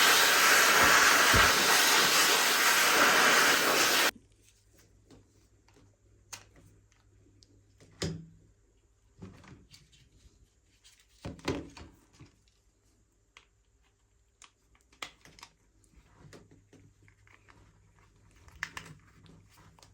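A loud, steady hiss of blowing air that cuts off suddenly about four seconds in, then scattered light clicks and taps of a plastic R/C toy remote controller being handled and cleaned.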